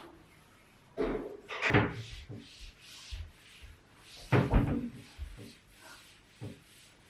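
A series of wooden knocks and thuds from a flat-pack wardrobe being handled and assembled. The loudest come about a second in, near two seconds and about four and a half seconds in, with lighter knocks between.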